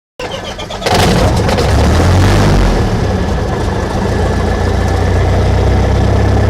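Cessna 172's four-cylinder piston engine starting: a brief weaker sound, then the engine catches about a second in and runs loud and steady, easing a little after a couple of seconds.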